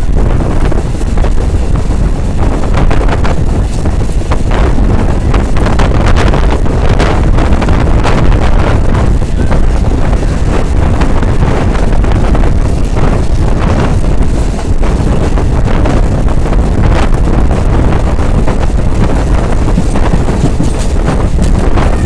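Wind buffeting the microphone over the steady running noise of a passenger train at speed, with irregular short clacks throughout.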